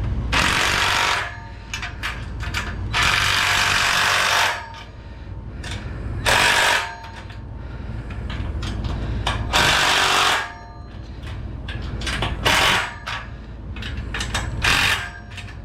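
Cordless impact gun driving bolts home in six short bursts, the longest about a second and a half, with pauses between as it moves from bolt to bolt while the frame is tightened up.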